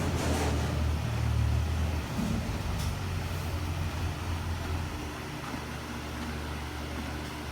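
A steady low mechanical hum, with a brief rustle about a third of a second in.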